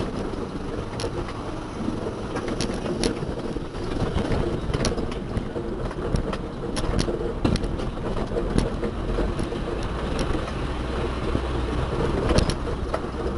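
A motor vehicle running steadily with a low hum, with frequent short clicks and rattles.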